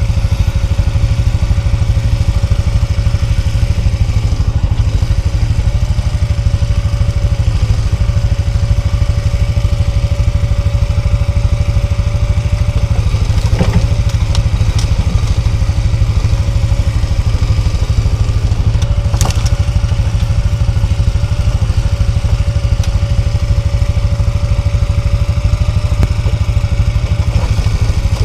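Quad bike (ATV) engine running steadily at an even speed, with two sharp knocks about halfway through.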